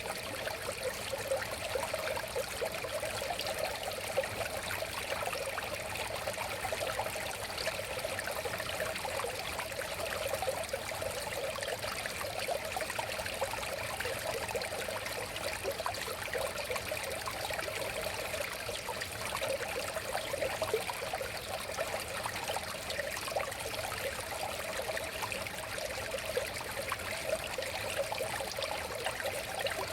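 River water flowing and burbling over stones, a steady, even babble.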